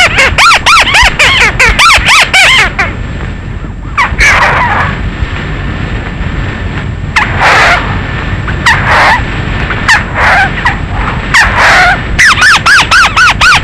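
Calls of the bird known in Vietnam as mắt xéo or chim chuột, used as a night lure call. A rapid train of squeaky arching notes, about six a second, stops after about two and a half seconds and starts again near the end. In between come a handful of scattered, harsher calls.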